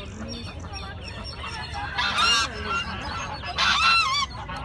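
A bird calling loudly twice, about half a second each time with a wavering pitch, over softer chattering of other birds.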